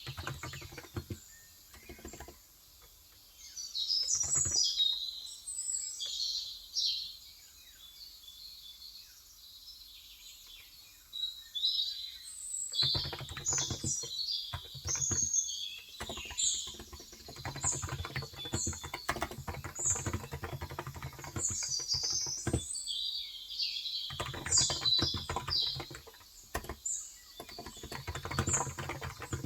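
Typing on a Cox Endeavor electrostatic-capacitive (35 g) tenkeyless keyboard in bursts of rapid keystrokes, with a pause of a few seconds near the first third, while small birds chirp and twitter throughout.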